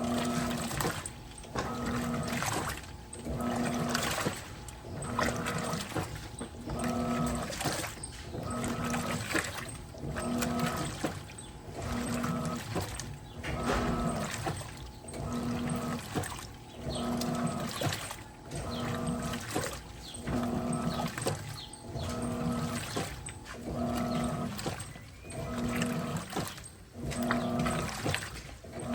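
Electrolux Turbo Capacidade Premium 15 kg top-loading washer agitating a load of clothes with its LPR16-style agitator: the motor hums in short strokes, about one every 1.2 seconds as the agitator reverses back and forth, with water swishing through the clothes.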